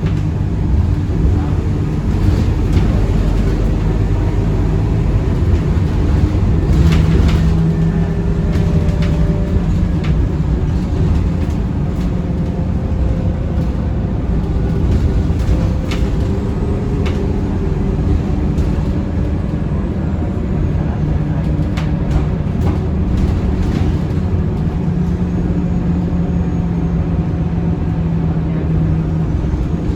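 Interior of a Scania K230UB city bus on the move: the engine and drivetrain run with a steady low rumble, the engine note rising and settling a few times as it pulls away and cruises, and the cabin makes occasional short rattles and clicks.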